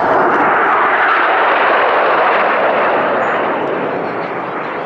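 Formation of six Northrop F-5E Tiger II jets passing at high speed: a loud jet roar that slowly fades toward the end.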